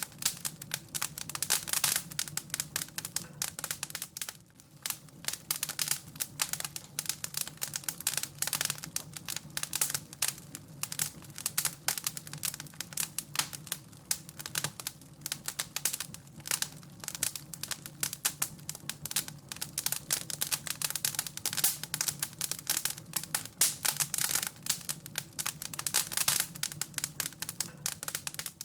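Wood fire crackling in a fireplace: dense, irregular crackles, several a second, over a faint low steady hum.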